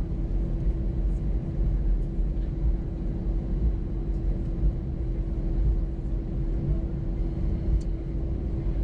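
Cabin noise inside an Airbus A320-212 after landing: the steady low rumble of the airliner taxiing with its engines at idle, with a constant hum over it.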